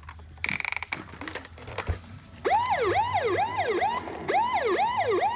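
Electronic siren from a 2015 Hess toy fire truck, a fast repeating swoop that jumps up and glides down about two to three times a second, starting about two and a half seconds in. Just before it, about half a second in, comes a short loud rattling burst.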